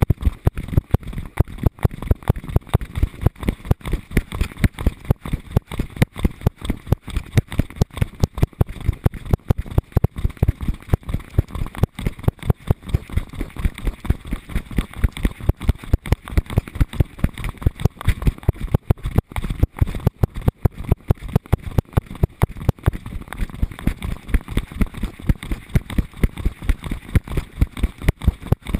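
Rapid, regular knocks and jostling, several a second, from a GoPro strapped to a dog's harness bouncing in time with the dog's strides.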